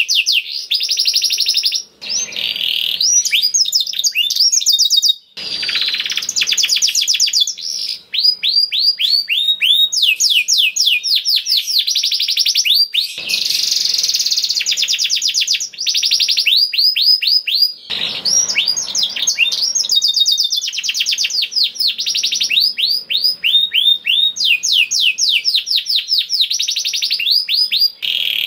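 Domestic canary singing continuously in long, fast runs of repeated high chirps and trills, changing phrase every few seconds, with a few brief breaks.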